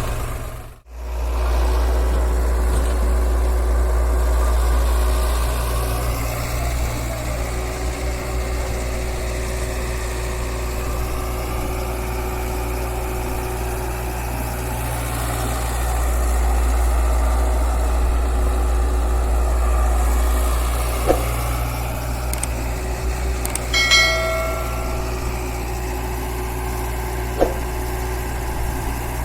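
Diesel engine running steadily at a low idle-like hum, with a brief drop-out about a second in. A short, high pitched beep sounds about three-quarters of the way through, and a couple of light knocks are heard.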